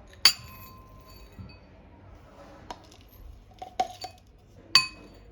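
Glassware clinking: two sharp clinks that ring briefly, about a quarter second in and near the end, with lighter taps and clatters of dishes in between.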